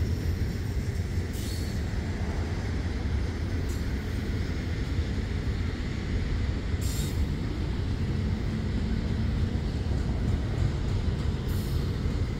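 Double-stack intermodal freight train rolling past close by: a steady low rumble of the well cars' wheels on the rails, with three or four short high hisses along the way.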